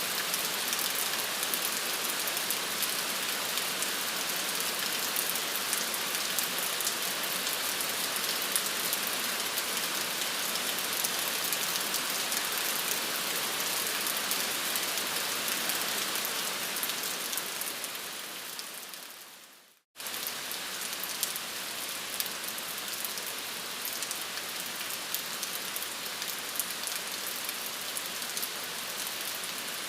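Steady rain falling on a surface, with fine patter of individual drops. About two-thirds through it fades out over a couple of seconds to a moment of silence, then starts again abruptly a little quieter, like a loop restarting.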